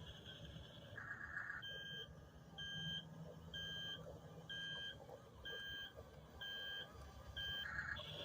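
Double E remote-control toy track-type tractor sounding its electronic backup-alarm style beep: seven short, even beeps about once a second, with a short electronic hiss just before the first and after the last.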